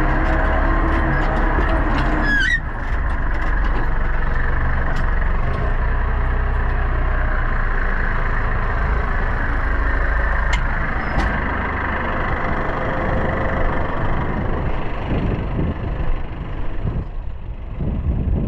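Pronar 1025A tractor's diesel engine running steadily, working in the field. A short rising squeal comes about two and a half seconds in. Near the end the engine note dips briefly, then turns uneven.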